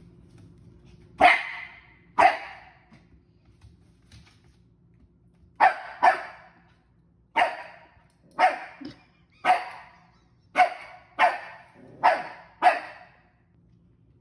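Small dog, a Maltipoo, barking in short, sharp barks, about eleven in all, in pairs and clusters. The dog is barking at a new toy it is scared of.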